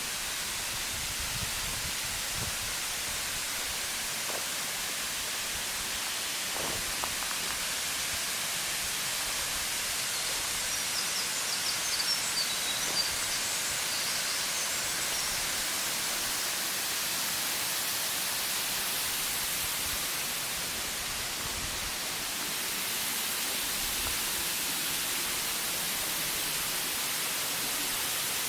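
Waterfall: a steady rush of falling water, heard as an even high hiss with little low end. A few brief high chirps come about eleven to thirteen seconds in.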